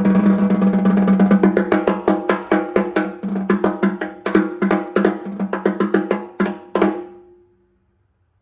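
Snare drum played with sticks, heard through a phone's microphone: a fast roll that breaks into separate strokes, slowing down and stopping about seven seconds in, the drum ringing with a strong low tone under each hit. A faint single tap follows near the end.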